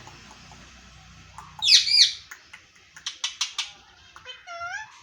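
Rose-ringed (ringneck) parakeet calling: a loud shrill double screech about two seconds in, a quick run of short sharp chirps, then a squeaky warbling call near the end.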